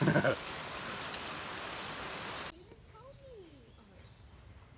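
Steady heavy rain falling, which cuts off abruptly about halfway through. After that there is a quiet outdoor background with a few faint bird chirps. A brief loud voice sounds right at the start.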